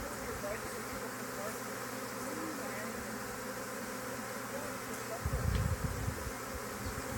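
Honey bee swarm buzzing steadily, with single bees flying close past in short rising and falling hums. A brief low rumble a little after five seconds in.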